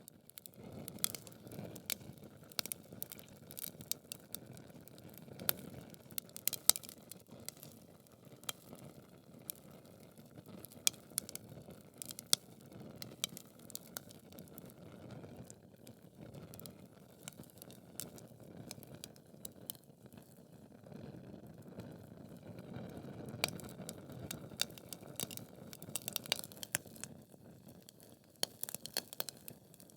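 Wood fire burning in a fireplace: logs crackling with many irregular sharp pops and snaps over a steady low rush of flame. The loudest snap comes a little before seven seconds in.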